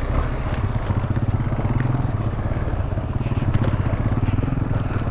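Single-cylinder adventure motorcycle engine running steadily at low revs while riding a rough trail. A few light clicks and scrapes come about three seconds in.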